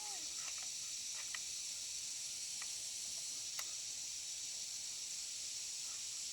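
Steady high-pitched hiss with a few faint clicks scattered through it.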